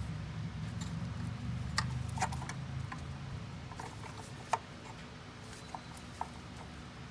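Scattered light clicks and taps over a low steady hum, with a cluster about two seconds in and the sharpest click about four and a half seconds in.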